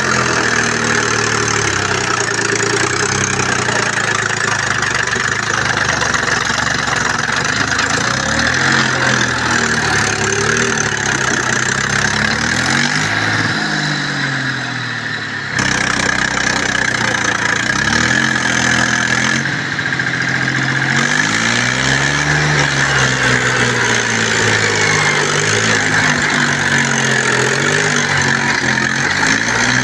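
Diesel tractor engine running hard, its pitch rising and falling several times as the throttle is worked, the sound of a tractor trying to pull free from mud. The sound changes abruptly about halfway through.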